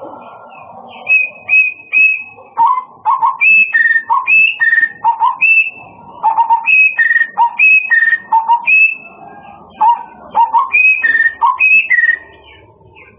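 A murai, a Copsychus songbird, singing loud whistled phrases: short clear notes at a few pitches, high and low, repeated in a regular pattern. The song starts about a second in and stops shortly before the end.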